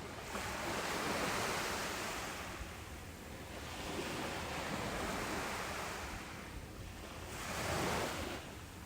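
Ocean waves washing onto a beach: rushing surf that swells and fades three times, about three seconds apart.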